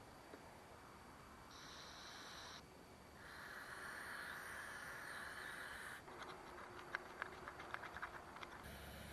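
Short hissing spray into carburetor parts, then a longer spray of about three seconds, followed by a quick run of small clicks and taps as the small parts are handled.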